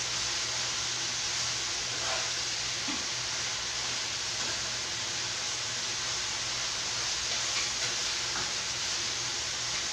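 Steady sizzling hiss of food frying in a pan on the stove, with a faint low hum underneath.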